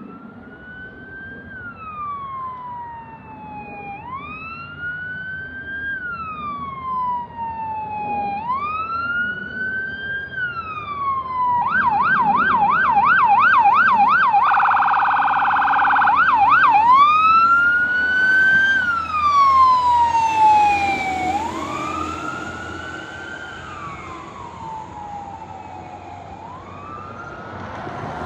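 Fire engine siren on a slow rise-and-fall wail, switching about twelve seconds in to a fast yelp and then a rapid warble for a few seconds before returning to the wail. It grows louder toward the middle and fades as the engine passes and moves away.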